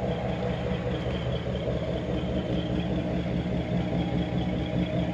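1964 Chevrolet Impala SS engine running steadily at idle, nice and quiet.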